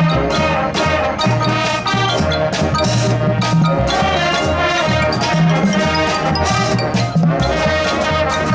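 High school marching band playing, brass over percussion with a steady beat.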